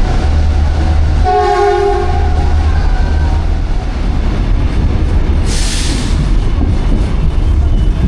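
Train running with a steady low rumble; the train's horn sounds briefly about a second in. A short burst of hiss comes near six seconds.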